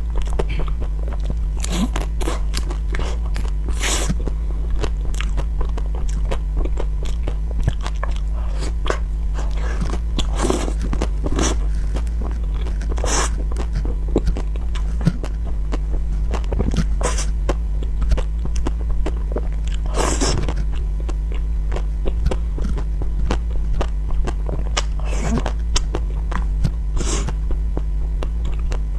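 Close-miked chewing of a soft chocolate-covered chewy candy: wet mouth clicks and smacks at irregular intervals, a few of them sharper. A steady low hum runs underneath.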